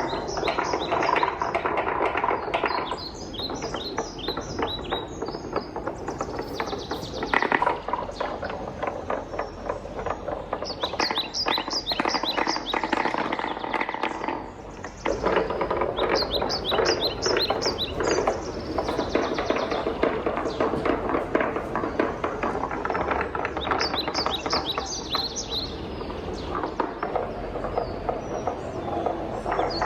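Wooden balls rolling and clattering through a wooden marble run: a dense rattle of small knocks with runs of quick, high, ringing ticks, easing off briefly about halfway before picking up again.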